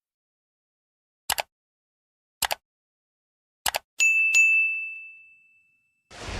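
Edited sound effects over digital silence: three quick double clicks about a second apart, then a bell-like ding struck twice that rings out and fades, and a whoosh near the end.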